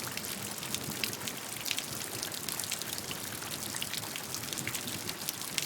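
Steady rainfall, with many separate drops ticking sharply over a constant hiss.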